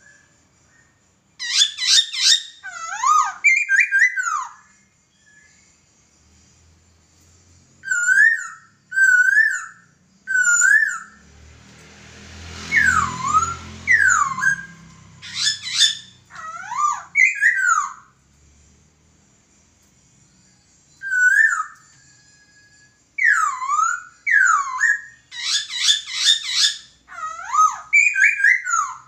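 Poksay (laughingthrush) singing: loud whistled phrases of sliding, swooping notes, repeated in bursts with short pauses between. There is a brief rushing noise about halfway through.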